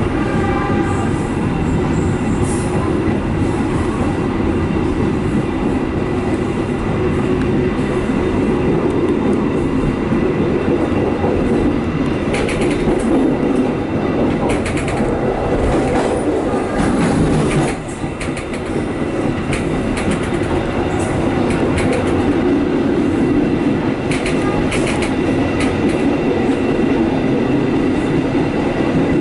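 Passenger train running along the track: a steady rumble of wheels on rail, with clusters of sharp clicks as the wheels pass over rail joints, and a brief drop in the noise about two-thirds of the way through.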